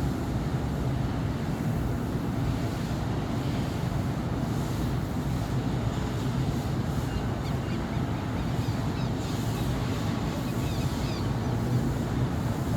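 Steady city traffic on a busy avenue: a continuous low rumble of cars and buses running past, with no single vehicle standing out.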